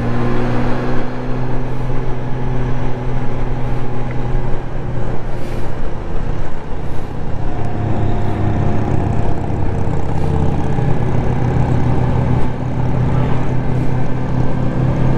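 Honda Gold Wing's flat-six engine running while cruising, heard from the rider's seat with wind and road noise; the engine note changes about two-thirds of the way through.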